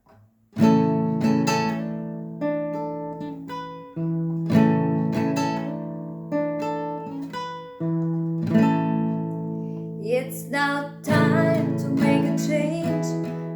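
Acoustic guitar strumming chords in a slow intro, each chord left ringing; a voice starts singing about ten seconds in.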